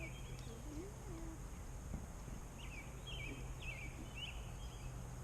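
Cornish Cross meat chickens peeping in short, repeated falling chirps, coming in clusters from about two and a half seconds in.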